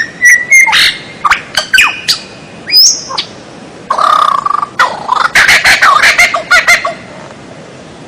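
Songbird singing a varied song of sharp chirps, short whistles and harsh notes, with a held high whistle about three seconds in and a fast, dense run of notes that follows.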